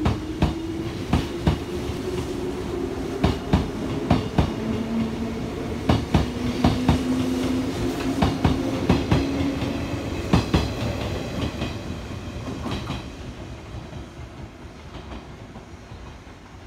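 JR 189 series electric train pulling out and running past, its wheels clacking over rail joints in quick pairs over a low steady hum. The sound fades away after about twelve seconds as the train draws off.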